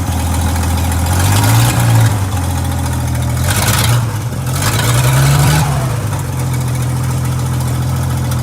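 1960 Ford F100's original 223 straight-six running shortly after a cold start, with the air cleaner off. It is revved up a few times in the first six seconds, then settles to a steady idle.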